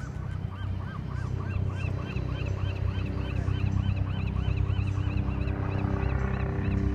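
A bird calling in a rapid series of high chirps, each rising and falling, about three to four a second. A second, higher-pitched series joins about a second and a half in. Under it is a steady low engine hum from the vessels on the bay.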